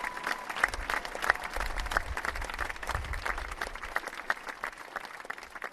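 A crowd applauding: many hands clapping together, with a few sharper close claps standing out. The applause dies away toward the end.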